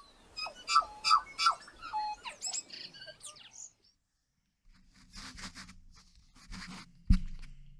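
Small birds chirping, a quick run of short rising and falling calls over the first three and a half seconds. After a short gap come rustling, handling noises over a low hum, with one sharp knock about seven seconds in.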